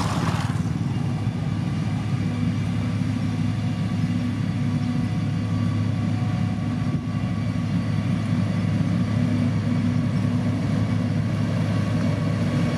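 Diesel engine of heavy road-construction machinery running steadily, a low even drone.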